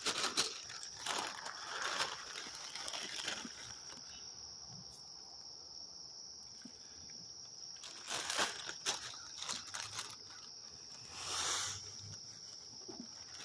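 Night insects, crickets or similar, chirring in a steady high-pitched chorus, with bouts of rustling and crinkling, like movement through dry grass or leaves, in the first few seconds and again twice later on.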